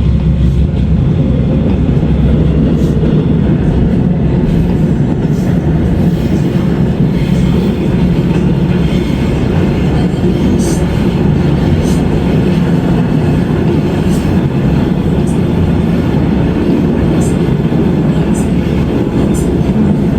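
Seoul Subway Line 2 train running along the line: a steady, loud rumble of wheels on rails, with scattered short clicks throughout.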